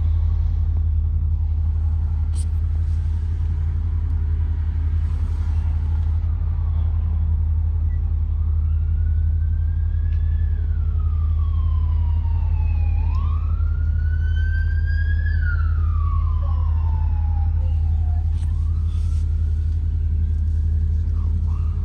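Ford 7.3L V8 engine of a Blue Bird Vision school bus running steadily, heard from aboard. From about eight seconds in, an emergency-vehicle siren wails over it, slowly rising and falling in pitch several times and fading near the end.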